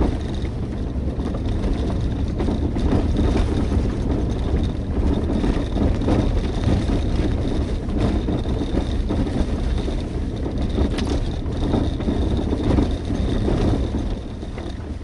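Jeep driving up a steep gravel track: engine running with gravel rumbling under the tyres, heard from inside the cabin.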